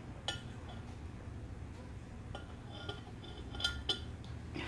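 A few light clinks and taps of tableware over a low background hum: one just after the start, then two close together past three and a half seconds in.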